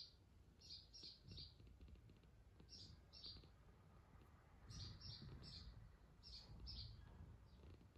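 A small bird chirping: short, high chirps, often two or three in quick succession, about a dozen in all, faint against a low background rumble.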